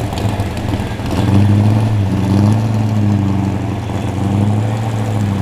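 Car engine idling with a low, steady rumble whose pitch wavers slightly.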